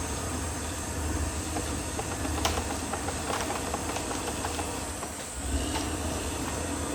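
Caterpillar D6R XL crawler bulldozer working, its engine giving a steady low rumble with a hiss over it. A run of sharp clanks and clicks comes between about two and a half and four seconds in.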